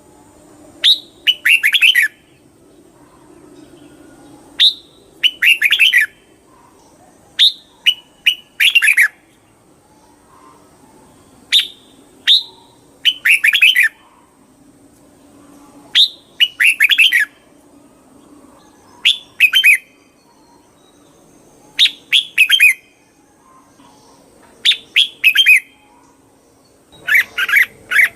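Red-whiskered bulbul singing, repeating a short phrase about every three to four seconds: a sharp high note, then a quick run of falling warbled notes.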